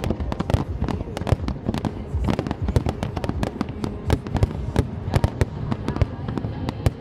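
Aerial fireworks bursting in rapid, irregular succession, many sharp bangs a second over a low rumble.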